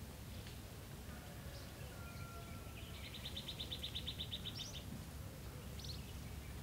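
Faint bird calls over a low steady hum: scattered high chirps, and about three seconds in a rapid trill of quick notes lasting under two seconds.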